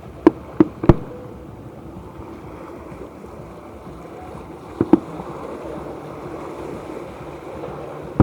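Fireworks exploding: three sharp bangs in quick succession in the first second, then a double bang about five seconds in, over a steady noisy background.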